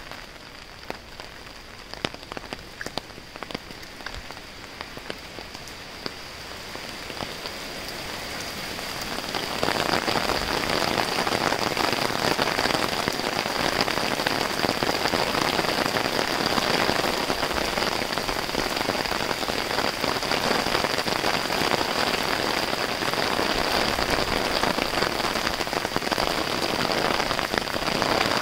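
Rain falling on a wet street. At first it is light, with separate drops heard as clicks. Over the first ten seconds or so it builds into a heavy, steady downpour.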